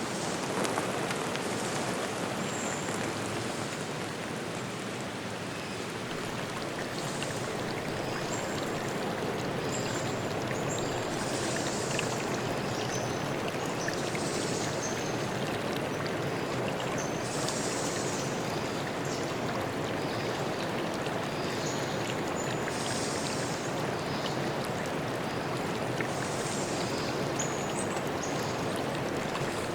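Steady rush of running water from a stream or waterfall, with short high bird calls chirping every second or two over it.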